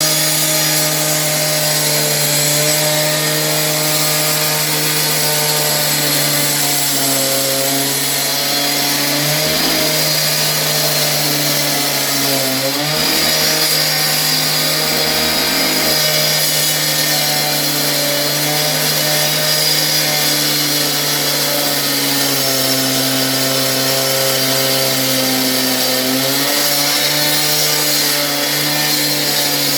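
Power saw cutting concrete: a steady motor whine over a high grinding hiss from the blade. The pitch sags briefly three times as the blade is pushed into the cut under load.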